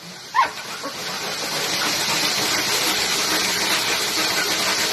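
A dog gives one short whining yelp about half a second in. Then a steady, loud hissing rush swells up and holds.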